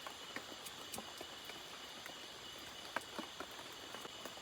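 Night insects, crickets among them, chirring steadily in a high, even drone, with scattered sharp clicks and ticks over it, the loudest about three seconds in.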